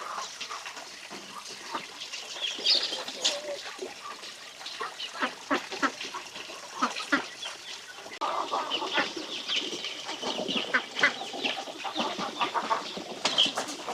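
Farmyard poultry clucking and calling, with many short clicks scattered through; the flock grows busier from about eight seconds in.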